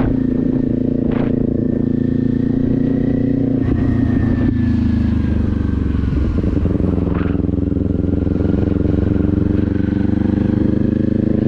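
Kawasaki Z400's parallel-twin engine running at a steady, even speed, its pitch dipping slightly about four seconds in.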